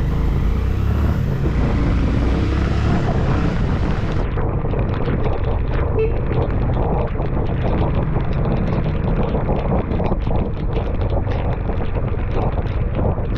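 Wind buffeting the microphone of a moving motorcycle in strong wind and rain, in loud irregular gusts over the steady rumble of the engine and road.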